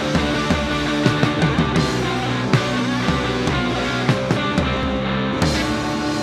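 Live rock band playing a song, with steady repeated percussive hits under sustained instrument tones.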